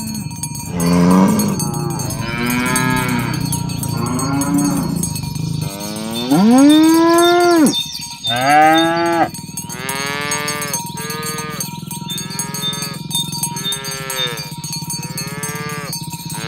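Several cows mooing over and over, their calls overlapping. One long, loud moo comes about six seconds in, followed by a run of shorter moos about one a second.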